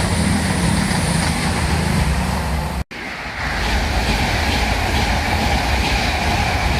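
Trains passing through a station, a loud steady noise of wheels on rail with heavy low rumble. It breaks off sharply about three seconds in and picks up again on a second passing train.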